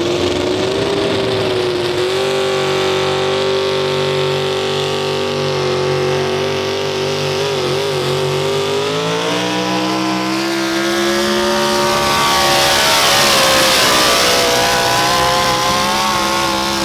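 Chevrolet pulling truck's engine running hard at high revs through a pull, its pitch holding high, dipping briefly about halfway and then climbing again, with a rising hiss in the later part.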